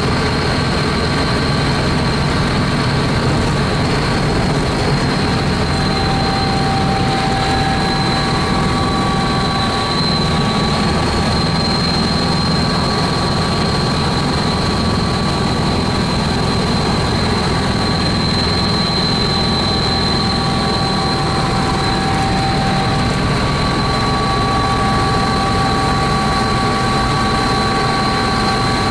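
Helicopter in flight: steady engine and rotor noise with several high, steady whines running through it.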